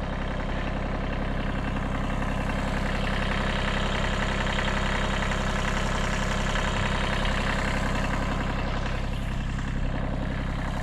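The 14 hp diesel engine of a 1978 Kubota B6100 compact tractor running steadily at a low, even speed.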